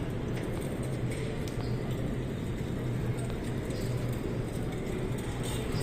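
Background noise of a large indoor exhibition hall: a steady low hum under a diffuse wash of noise, with a few faint clicks.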